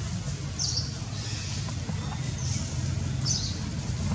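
A bird chirping in short high calls, roughly once a second, over a steady low rumble.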